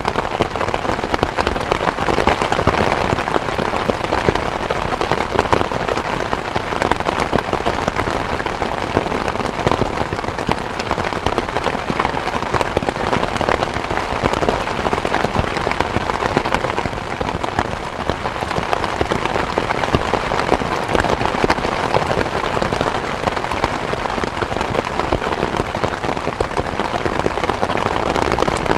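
Steady, fairly heavy rain falling, a dense patter of countless drop impacts with no letup.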